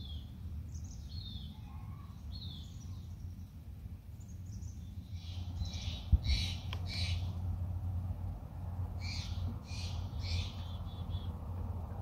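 Backyard birds calling: a few short, high chirps in the first seconds, then two series of loud, harsh calls, three or four at a time, about six and nine seconds in, over a steady low hum.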